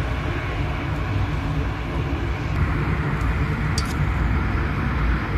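Heavy rain and road traffic: a steady hiss over a low rumble, with a brief faint click about four seconds in.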